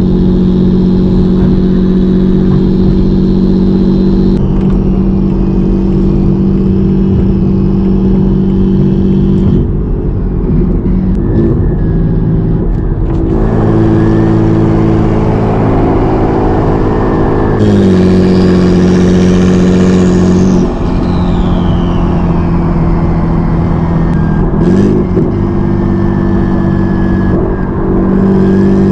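Single-turbo, hood-exit BMW 335i's N54 inline-six running while driving: a steady engine note that drops and changes pitch around gear changes. About 18 seconds in a short pull brings a rising turbo whistle, which falls away over the next couple of seconds as the engine settles back to a steady cruise.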